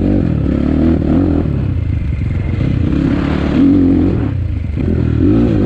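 Enduro motorcycle engine running as the bike is ridden off-road, its pitch rising and falling with the throttle.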